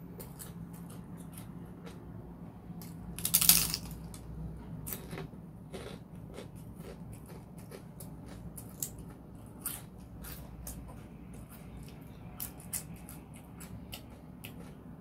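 Close-miked eating sounds: chewing with many small, sharp mouth clicks and smacks, and one louder, brief noisy crunch about three and a half seconds in.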